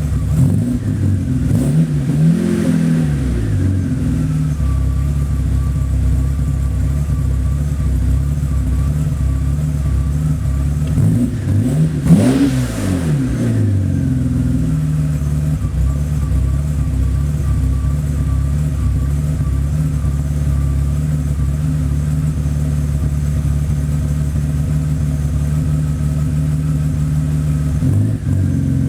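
BMW 850 (E31) V12 idling steadily during warm-up, blipped twice: a quick rev rising and falling back to idle about two seconds in, and a sharper, louder one about twelve seconds in.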